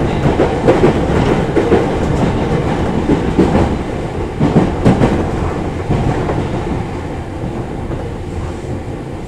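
Running noise of a 205 series electric commuter train heard inside the passenger car: a steady rumble with irregular clatter of wheels over rail joints, growing gradually quieter over the last few seconds.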